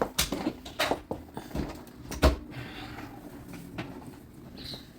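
Knocks and clicks of plastic vacuum-cleaner parts being handled and set down, four short ones in the first two and a half seconds, the loudest a little over two seconds in.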